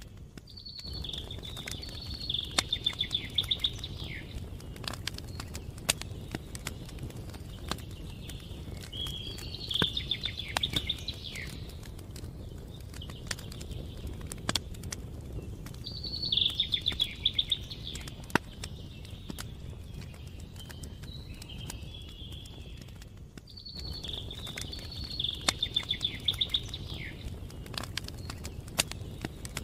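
A songbird sings the same trilled phrase four times, about every seven seconds. Underneath, a campfire crackles with sharp irregular pops over a steady low rumble of burning.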